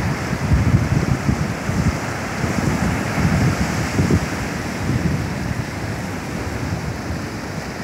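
Ocean surf washing on the beach, a steady rushing, with wind buffeting the microphone in gusts of low rumble.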